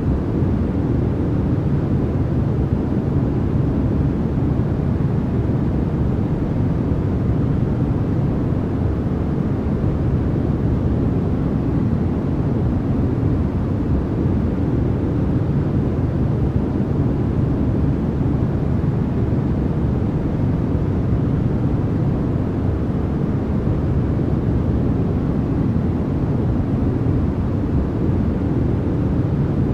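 Steady, unbroken noise track of the kind sold as white noise for sleep. It is low and muffled rather than bright, with most of its weight in the bass and little hiss up top.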